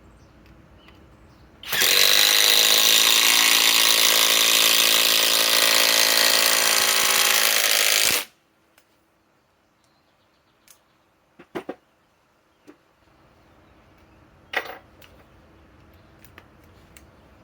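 Cordless impact driver hammering a 6-inch TimberLOK structural screw into wood in one continuous run of about six seconds, then cutting off sharply as the screw seats. A few light clicks and knocks follow.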